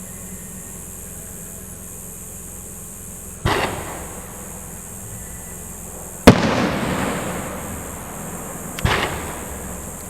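Aerial firework shells bursting: three sudden bangs, at about three and a half, six and nine seconds in, the middle one loudest and trailing off in a long echoing rumble.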